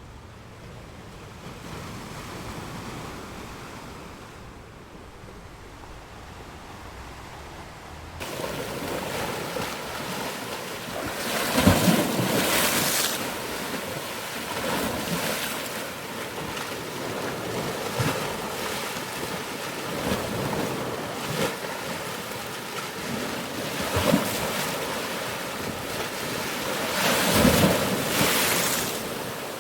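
Ocean surf: a low, quieter wash of waves that jumps abruptly louder about eight seconds in, then waves breaking and rushing, with the biggest swells about twelve seconds in and near the end.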